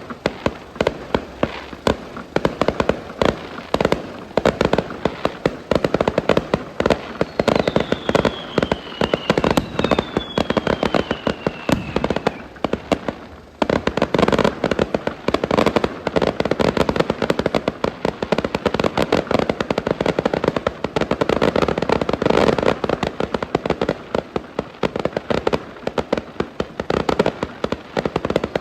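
Many fireworks going off at once: a dense, continuous crackle of bangs and pops. Two falling whistles sound between about eight and twelve seconds in, and there is a brief lull at about thirteen and a half seconds.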